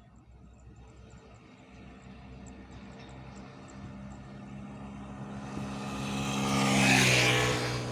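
A fuel tanker truck approaching and passing at speed. Its engine drone builds steadily from faint, the tyre and wind rush peaks about seven seconds in as it goes by, and the engine note drops slightly as it passes.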